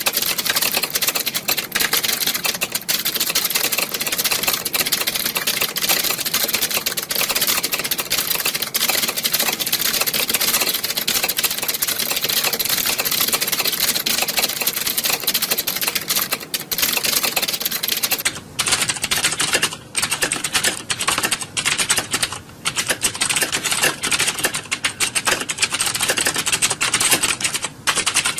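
Many computer keyboards being typed on at once, as in a typing-test exam hall: a dense, continuous clatter of key clicks. About two-thirds of the way through, the clatter thins a little, with a few brief gaps.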